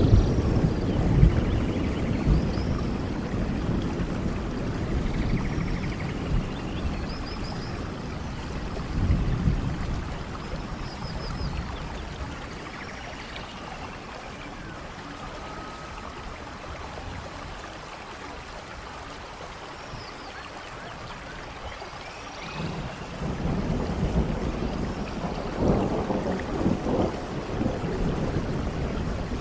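Thunder rumbling over steady rain. A low rumble fades over the first few seconds, another comes about nine seconds in, and a longer one builds from about 23 seconds in. Faint short chirping calls sound above the rain.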